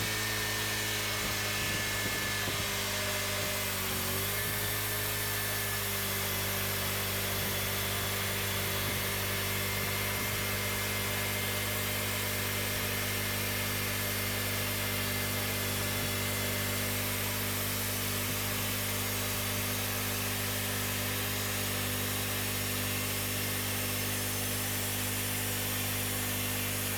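Cooks 3238 hydraulic band sawmill running steadily while the blade saws the first slab off a cherry log. The engine's pitch dips briefly about four seconds in, then holds steady.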